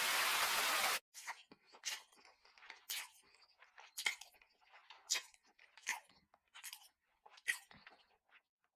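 A burst of steady hiss that cuts off about a second in, then a string of sharp crunching clicks, roughly one a second.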